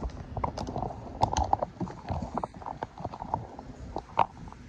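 Irregular knocks and clicks, several a second, from a phone being handled, over a low rumbling background.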